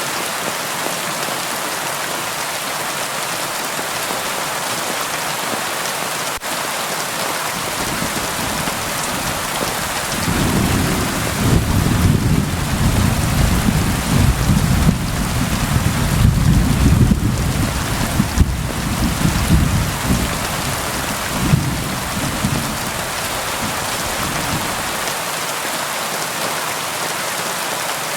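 Steady rain hissing throughout, with a long rumble of thunder that rolls in about ten seconds in, swells through the middle and dies away about three-quarters of the way through.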